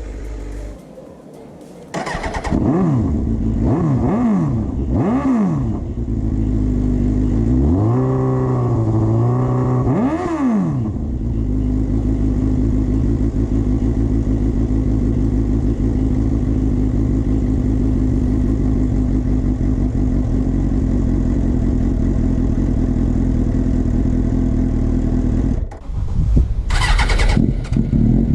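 2005 Suzuki GSX-R750's inline-four motorcycle engine through a Scorpion stainless half-system aftermarket exhaust: it starts about two seconds in, then the throttle is blipped three times in quick succession. A longer rev is held for a few seconds before the engine drops back to a steady idle, and there is one more sharp rev near the end.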